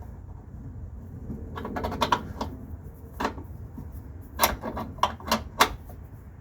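Hand tools clinking on metal during engine mount work: a handful of sharp, irregular clicks and clanks, the sharpest four or five coming close together in the second half.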